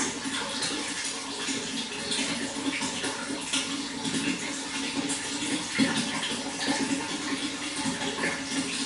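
Running water splashing and trickling steadily, a continuous stream of small irregular splashes.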